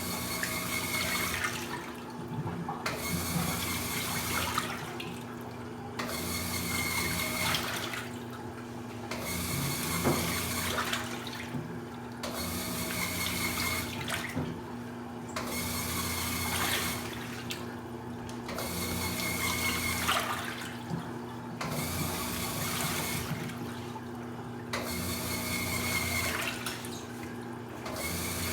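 Top-loading washing machines at work: water sloshing and swishing in regular surges about every two and a half seconds over a steady low machine hum.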